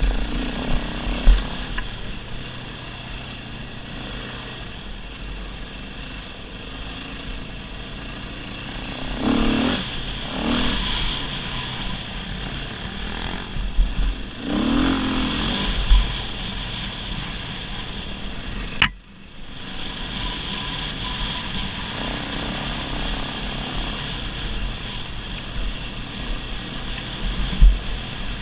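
Dirt bike engine running on a trail ride, swelling twice as the throttle is opened. There is a sharp click and a brief drop-out in sound about two-thirds of the way through.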